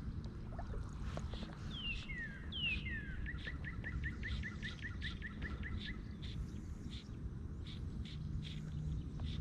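A songbird calling: two sharp falling slurred notes, then a quick run of short, even notes at about four a second, lasting nearly three seconds. A steady low rumble lies underneath throughout.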